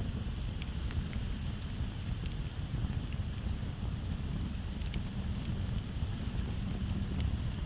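Campfire crackling, with sharp pops scattered irregularly over a steady low rumble. Crickets chirr steadily in the background.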